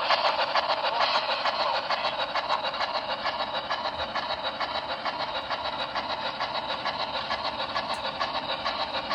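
Sound decoder of a BLI HO scale four-truck Shay model locomotive playing steam exhaust chuffs through its small onboard speaker, in a quick, even beat. It eases down a little over the first few seconds and then holds steady.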